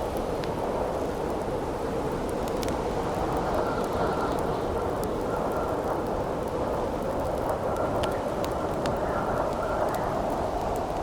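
Wind blowing steadily with a faint whistle now and then, over a campfire's wood crackling in scattered sharp pops.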